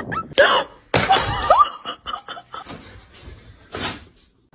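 A person laughing and snickering in short bursts, with a brief rising vocal sound about a second and a half in.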